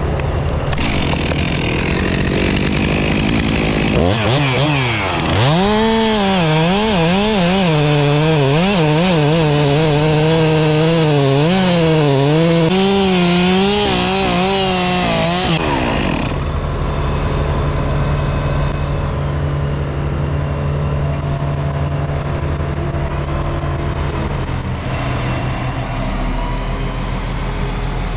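Stihl 362 chainsaw revving up about four seconds in and cutting big wood for about twelve seconds, its pitch dipping and recovering under load, then winding down. A truck engine runs steadily underneath.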